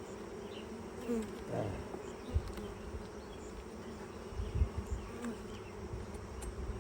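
Honeybees buzzing around an open hive during a frame inspection: a steady hum, with single bees passing close by now and then. Two dull low thumps, about two and a half and four and a half seconds in.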